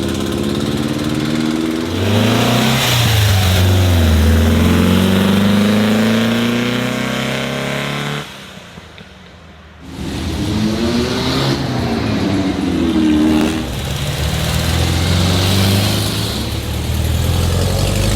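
Old cars' engines running and revving, their pitch sliding up and down as they go by. The sound drops away sharply for about two seconds near the middle before more engines come in.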